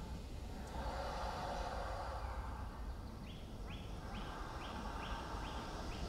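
Woodland ambience with a steady low rumble; from about halfway through, a bird calls a series of seven short, sharply rising high notes, about two a second.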